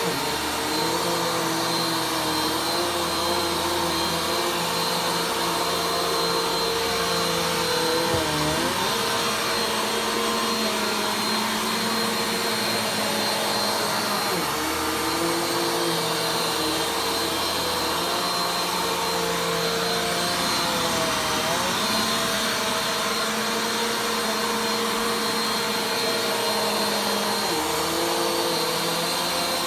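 Vacuum cleaner running steadily during slow vacuuming, its motor whine dipping briefly in pitch about every six to seven seconds.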